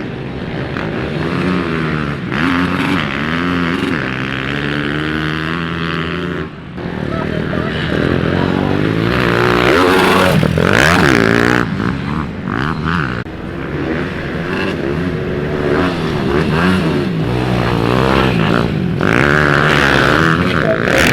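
Pit bike engines revving up and down as the bikes ride around a dirt track, the pitch rising and falling again and again.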